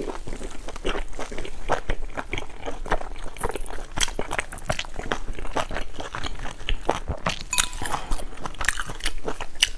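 Close-miked chewing of soft steamed buns: a steady run of wet mouth clicks and smacks with quick little snaps.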